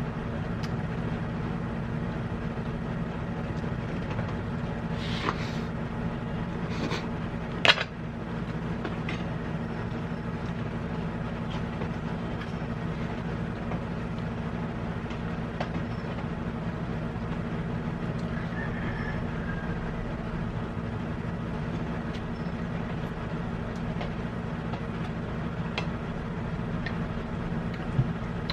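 A steady low mechanical hum, with scattered faint ticks and rustles of eating and handling food, and one sharp clatter just before eight seconds in and another near the end.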